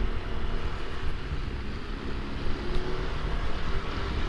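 Wind buffeting on a microphone inside a motorcycle helmet while riding a Yamaha NMAX scooter, a heavy, unsteady low rumble with the scooter's engine running faintly underneath. The rider puts the wind turbulence down to the GoPro's large case mounted on the side of the helmet.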